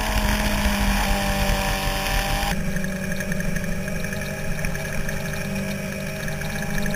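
Sport bike's inline-four engine running at road speed under heavy wind rush on the microphone. The wind noise drops away suddenly about two and a half seconds in, leaving the steady engine note.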